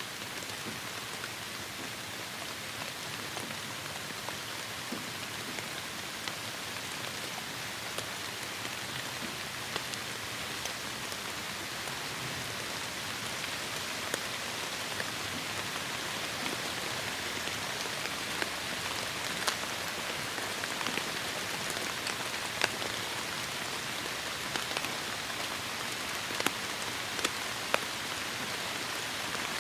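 Heavy rain falling steadily as an even hiss, with many individual drops ticking sharply on a surface, a few of them louder in the second half.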